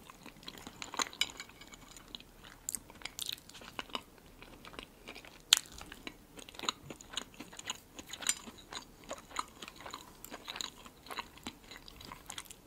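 Close-miked eating sounds: food being chewed, with many small wet mouth clicks and one sharp click about five and a half seconds in as a bite is taken.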